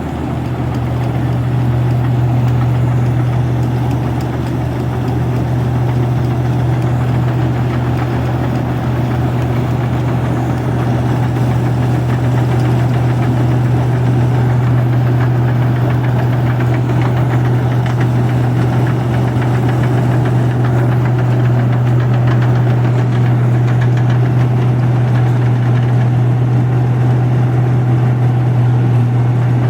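Rice combine harvester's diesel engine running steadily, a continuous low drone.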